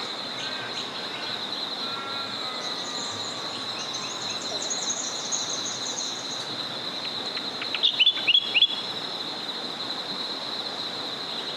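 A small river flowing under birdsong and a steady high-pitched chorus: scattered chirps, a trill and a falling whistle, then a quick run of four loud, sharp downward chirps about eight seconds in.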